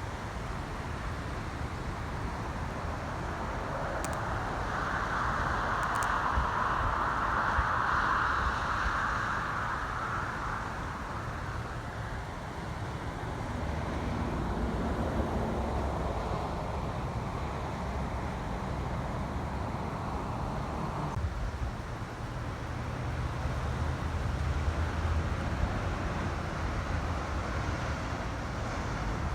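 Steady road noise of a vehicle driving: a continuous low rumble with a hiss that swells for several seconds about five seconds in, and the rumble shifts about two-thirds of the way through.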